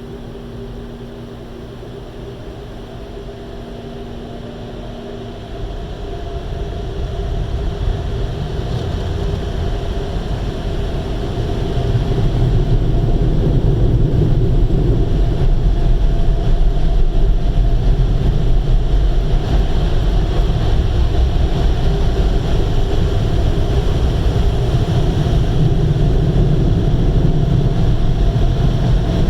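Automatic car wash running: a steady rush of water spray and blower fans that grows louder about six seconds in and again about twelve seconds in. A low hum fades out early on, and a higher steady whine comes in as the noise builds.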